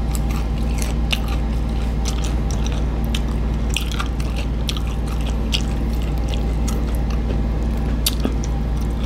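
Close-miked chewing of breaded fried chicken: many short, irregular crunches and mouth clicks over a steady low hum.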